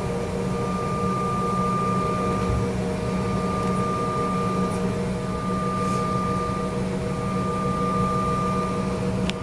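Steady cabin drone of a CRJ-900 regional jet on the ground before takeoff: a low hum under a high, steady whine that fades out briefly a couple of times, with a light click near the end.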